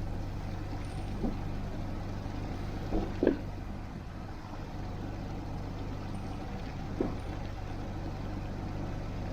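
Boat engine running with a steady low hum. A few brief short sounds stand out over it, about three seconds in and again near seven seconds.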